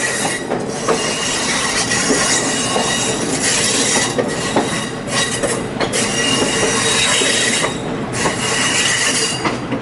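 Passenger train running on the rails, its wheels squealing with steady high tones that fade in and out over a rushing rumble.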